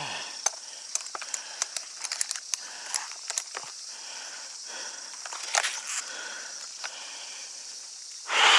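Climbing gear being handled on a ladder: scattered sharp clicks and rattles from hardware and rope, with a loud rustle near the end.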